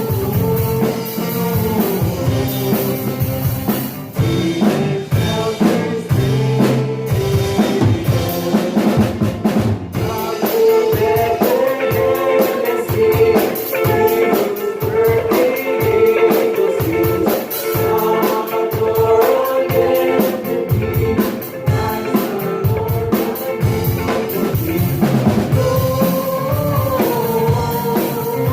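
Live church worship band playing a hymn with a drum kit, with voices singing the melody.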